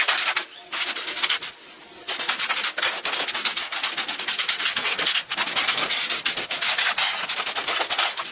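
Rapid, rhythmic abrasive scrubbing: fast rasping strokes against a hard surface, like sanding or wire-brushing, breaking off briefly twice near the start.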